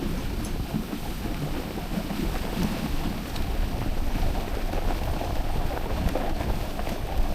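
Steady wind rumble buffeting the microphone of a camera riding along on a dog sled.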